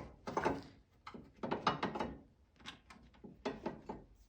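Hand socket ratchet clicking in several short bursts of strokes, working a fastener.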